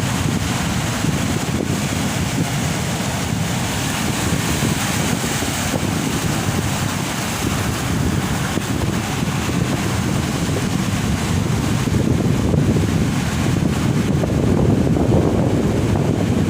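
Heavy ocean surf crashing steadily on the shore, with wind buffeting the microphone. The surf swells louder near the end.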